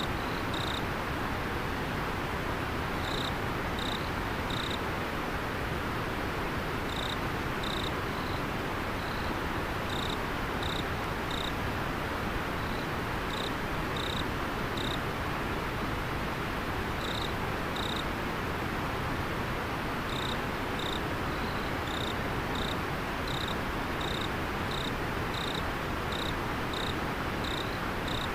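River water flowing steadily, with an insect chirping over it in short high chirps, mostly in groups of two or three, every second or two.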